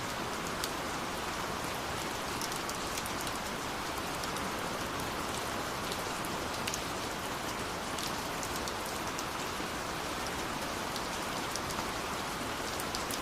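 Steady rushing water of a waterfall, with scattered sharp crackles and pops from a burning wood fire.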